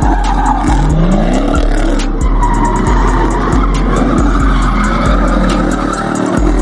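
A car's tyres squealing and its engine running, with a brief rise in engine pitch about a second in, under music with a heavy, pulsing bass beat.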